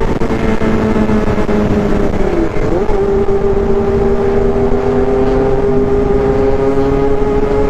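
Honda CB400 Super Four Version S four-cylinder four-stroke engine running at speed under load, a high buzzing note like a bee. Its pitch dips briefly a little over two seconds in, then holds and slowly climbs again.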